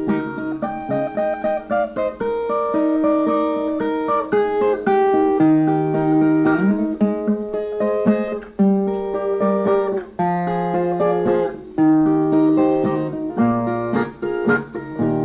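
Brazilian viola, a ten-string guitar, playing an instrumental break: a plucked single-note melody over bass notes, with no singing.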